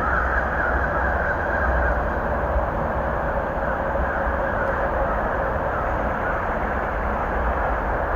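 Steady roar of highway traffic, an even rumbling noise with no distinct events.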